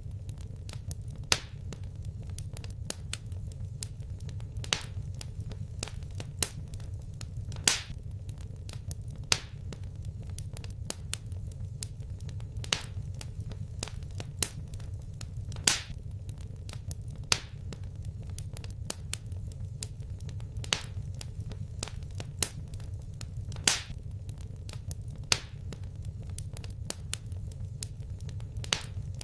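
Wood fire crackling in a fireplace: irregular small snaps and a loud pop every second or two over a steady low rumble of the flames.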